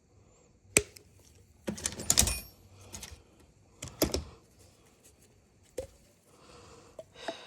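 Sharp clicks and knocks of hand tools and chainsaw parts being handled: a single click, then a quick rattling cluster, followed by a few spaced-out knocks.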